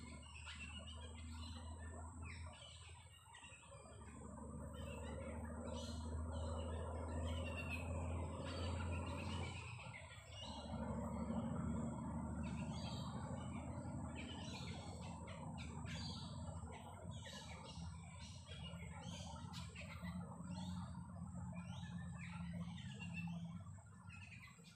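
Many birds chirping and calling in quick, overlapping notes over the soft patter of light rain. A steady thin high tone runs through it, and a low droning hum underneath changes about four and ten seconds in.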